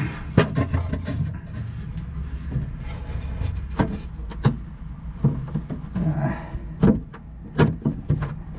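Handling noise of hands working metal fittings in a cramped space: irregular clicks, knocks and rubbing over a steady low hum.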